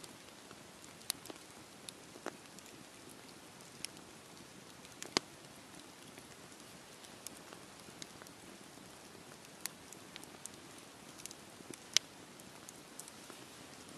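Wood fire crackling: a soft steady hiss with scattered sharp pops, the loudest one about five seconds in and another near the end.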